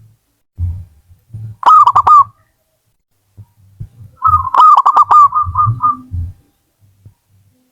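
Zebra dove (perkutut) cooing: a short phrase of about four quick notes about two seconds in, then a longer phrase of about ten notes that trails off, with softer low sounds between them.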